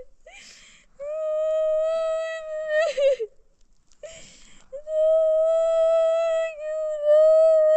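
A voice wailing in two long, loud cries, each held on one steady pitch for two to three seconds, with a sharp gasping breath before each.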